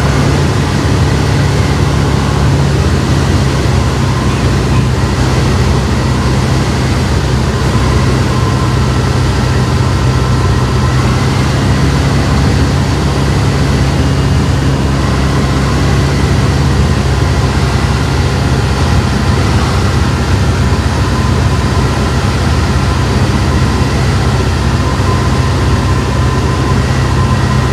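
Steady, loud drone of a Sling 2 light aircraft's Rotax four-cylinder engine and propeller heard in the cabin, with a deep steady hum and air noise on final approach.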